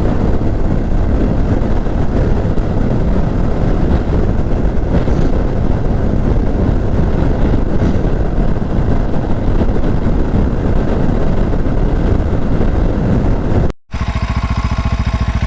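Small Herald motorcycle being ridden, its engine rumbling under heavy wind and road noise. About fourteen seconds in the sound cuts off sharply and resumes as a steadier, more even engine note.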